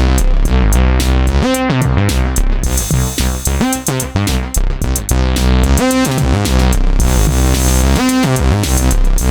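Behringer K-2 analog monosynth, a clone of the Korg MS-20, playing a sequenced bass line at 110 bpm, its resonant filter opening in bright sweeps about every two seconds, over a drum machine beat.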